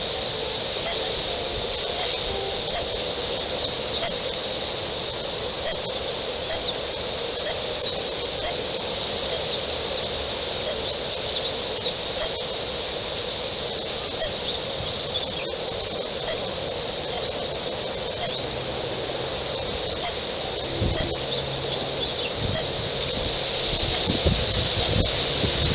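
Daurian redstart calling: one short, sharp, high note repeated about once a second at uneven intervals, some twenty times, over a faint steady hiss.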